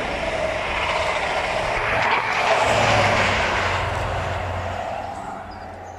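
A train passing through the station, its rumble and steady low hum swelling to a peak about halfway through and then fading away as it recedes.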